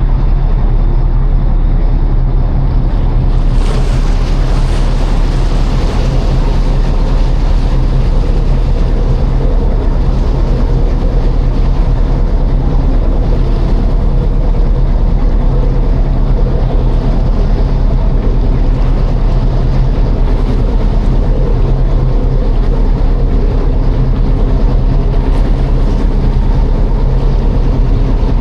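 Passenger ferry's engine humming steadily, under a rushing wash of water and wind; the rushing grows louder and brighter about three and a half seconds in.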